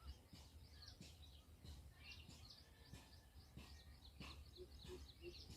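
Near silence with faint birds chirping, short scattered calls. Near the end a soft low note repeats about three times a second.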